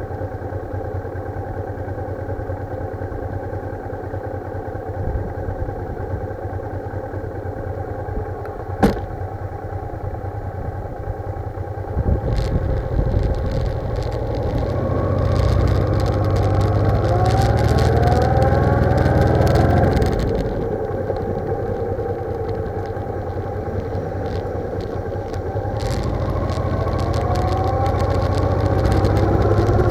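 Motorcycle engine running on the move, its pitch rising as it accelerates about halfway through and again near the end, under heavy wind buffeting on a bike-mounted microphone. There is a single sharp click about nine seconds in.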